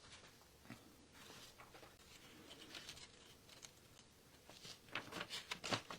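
Faint rustling and light taps of decoupage paper being handled and laid onto a glue-coated sign, a little louder about five seconds in.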